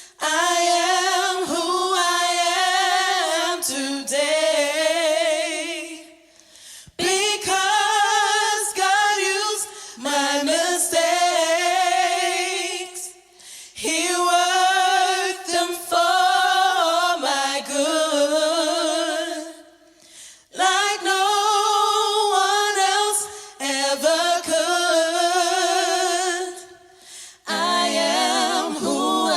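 Choir singing a cappella with no instruments: high voices carry a slow melody with vibrato, in phrases about seven seconds long with short breaths between them. Near the end the sound grows thicker.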